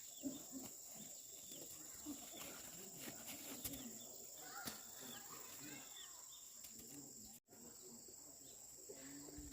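Faint outdoor ambience: a steady high insect drone with scattered short bird chirps and a few light clicks. It drops out for an instant a little after seven seconds in.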